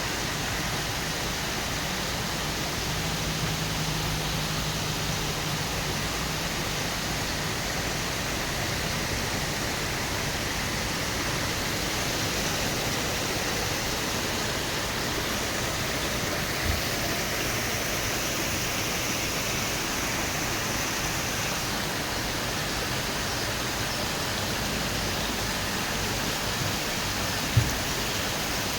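Waterfall rushing in a steady, even roar of falling water. Two brief low thumps break in, one about halfway through and a louder one near the end.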